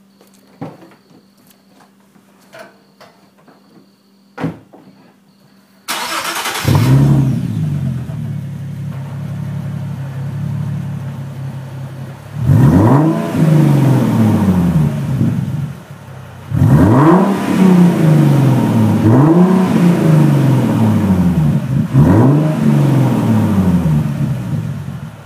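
Nissan 370Z Nismo's 3.7-litre V6 with its mufflers deleted: a few faint clicks, then the engine starts about six seconds in and idles loudly. From about twelve seconds it is revved about four times, the note rising and falling each time, before it settles back down near the end.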